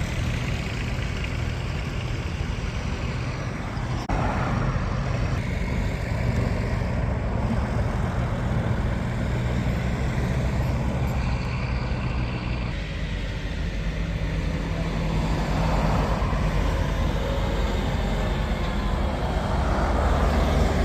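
Tractors driving past one after another in a road procession, their engines running with a steady low drone, growing louder near the end as another one comes close.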